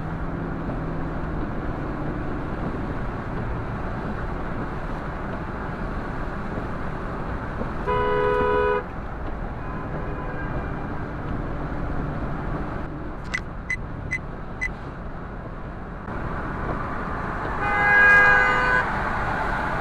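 Steady traffic noise with two long car horn honks, one about eight seconds in and a louder one near the end. A few sharp clicks come in between.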